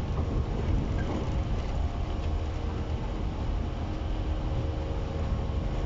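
JR East 115-series electric train standing at a platform: a steady low rumble with a faint even hum.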